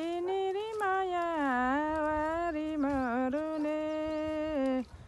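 Solo singing of a Nepali folk song, one long melismatic phrase on a held vowel with bending, wavering pitch ornaments, breaking off near the end.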